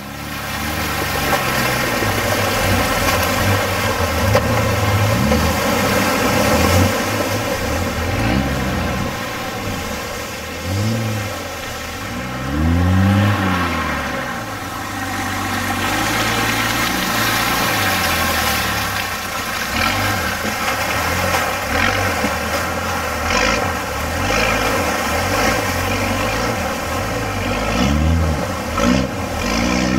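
Four-wheel-drive engine running steadily while driving through mud, revved up and back down twice, once about a third of the way in and again near the end.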